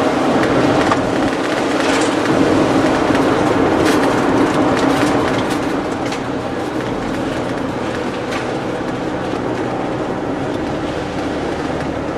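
Steady road and engine rumble heard inside a moving vehicle, with a few light knocks, easing slightly in loudness about halfway through.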